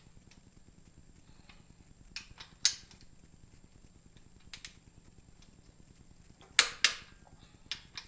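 Scattered sharp metallic clicks and clinks of a hand ratchet and socket working the main bearing cap bolts on a Chevrolet 235 inline-six block, the two loudest close together near the end.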